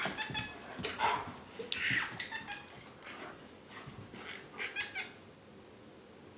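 A run of short, high-pitched animal calls in quick succession from pets, busiest in the first few seconds and dying away near the end.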